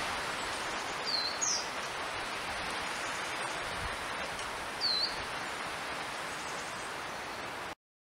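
Three short, high bird calls, two close together about a second in and one near five seconds, over a steady background hiss; the sound cuts off abruptly just before the end.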